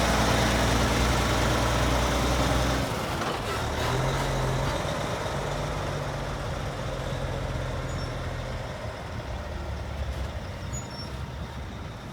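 Heavy truck's diesel engine passing close by: loud with a deep hum for about the first three seconds, then dropping off and fading away as it goes past.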